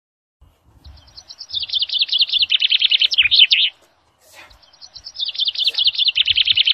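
A songbird sings two similar short songs of rapid, high notes, each about three seconds long, with a pause of about a second between them.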